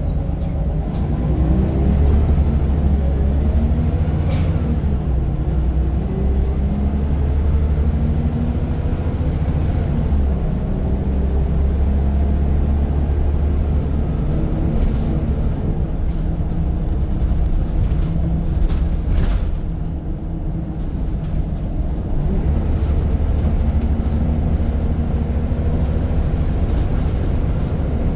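Scania N94 single-decker bus engine heard on board, pulling hard: the engine pitch climbs and drops several times as it works through the gears. A few sharp clatters or hisses cut in, the clearest about 19 s in, just before the sound briefly eases.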